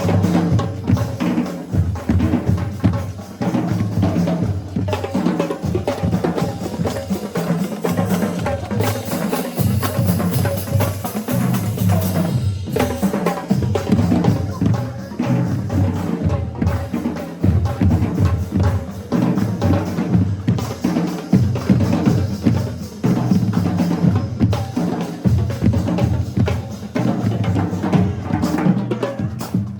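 Marching band drumline playing a cadence: snare, tenor and bass drums in a dense, steady rhythm with loud low drum hits.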